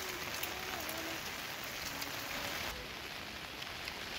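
Steady rain falling, an even hiss of rain on surfaces that eases slightly about two-thirds of the way through.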